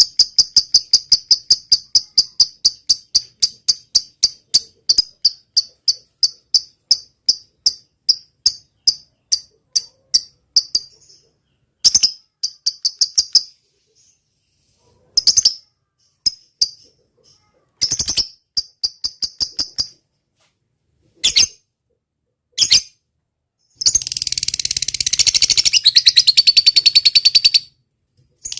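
Recorded high-pitched bird and insect calls of the kind used to tutor songbirds. First comes a run of evenly spaced chirps, about four a second, that slows and fades out about ten seconds in. Short bursts of quick chirps follow, and near the end comes a dense trill lasting a few seconds.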